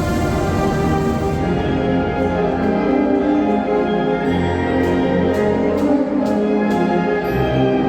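A Oaxacan Sierra Mixe banda filarmónica (brass and wind band) playing held chords, with regular percussion strikes about twice a second in the second half.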